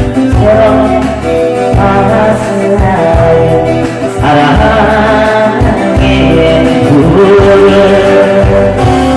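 Live band playing a Korean 7080-style pop song: guitar and a held melody line over a pulsing bass.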